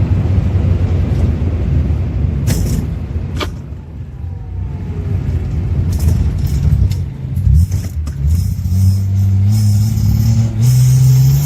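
1970 Datsun 240Z's freshly rebuilt inline-six running as the car drives. The engine note eases off about four seconds in, then climbs steadily as the car accelerates over the last few seconds.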